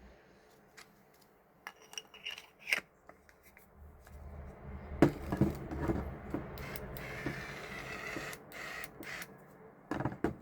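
Electric spice grinder being handled and its coarseness adjuster twisted: a few light clicks, then some seconds of scraping and rubbing with occasional knocks.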